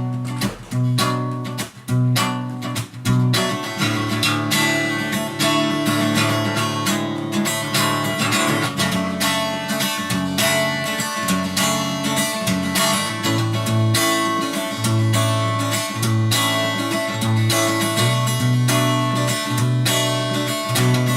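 Acoustic guitar playing an instrumental introduction, a few sharp strummed chords at first, then sustained chords strummed and picked without a break.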